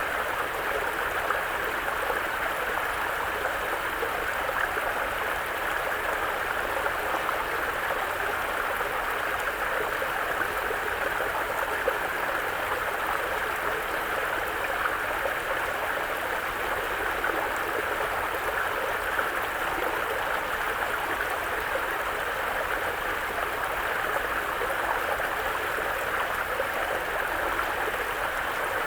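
A mountain brook flowing over rocks, a steady babbling of running water with no breaks.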